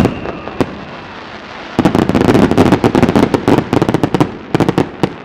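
Aerial fireworks going off in rapid volleys of many sharp bangs and crackles, with one lone crack early and two dense clusters about two seconds in and near the end.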